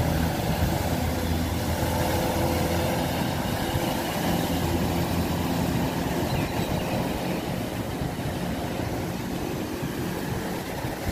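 A vehicle engine running steadily: a low hum under an even hiss.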